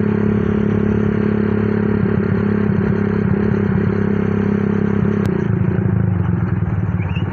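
Honda CB motorcycle with a bored-up 200cc Honda Tiger single-cylinder four-stroke engine and a 'dos' box exhaust, running at a steady cruising speed. About five seconds in the throttle is eased off and the engine note drops to a lower, pulsing putter as the bike slows.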